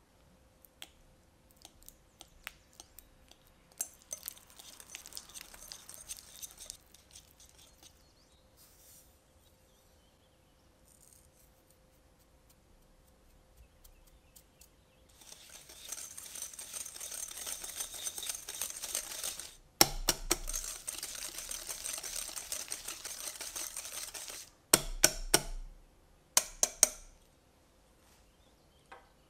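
Softened butter and sugar being mixed in a glass bowl with a spatula: long runs of scraping and squishing against the glass in the second half, broken by sharp clicks of the tool knocking the bowl. Lighter taps and rustles come earlier on.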